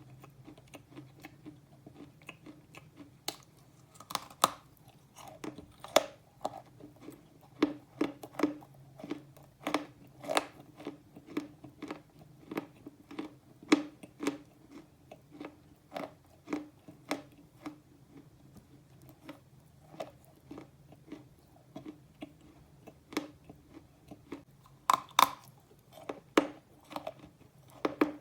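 A person biting and chewing slate pencils: a steady run of sharp, dry crunches about one or two a second, with a few louder bites along the way.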